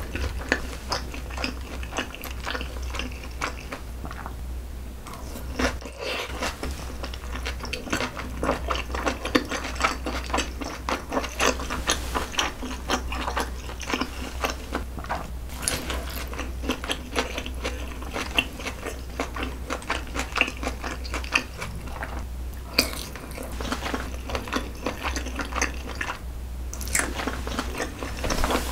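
Close-miked chewing of saucy noodles wrapped in pickled radish: continuous wet mouth clicks, smacks and light crunching, with a few brief pauses, over a steady low hum.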